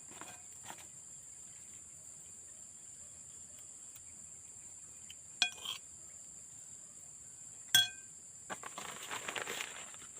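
Eating utensil clinking sharply against a dish twice, each strike ringing briefly, over a steady high-pitched drone. A stretch of scraping rustle follows near the end.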